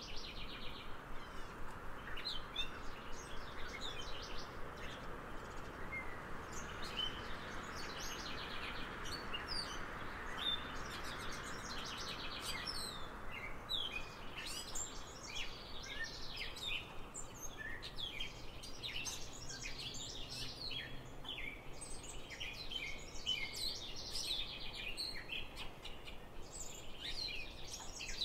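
Wild songbirds chirping and trilling, many short calls overlapping and coming thicker in the second half, over a soft steady outdoor hiss.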